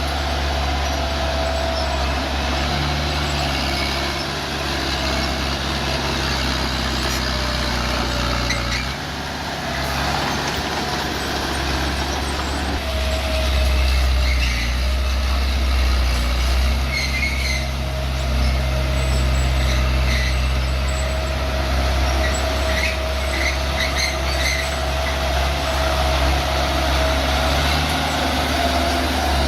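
Bulldozer's diesel engine running steadily under load, with a constant whine and scattered short high squeaks and clanks through the second half.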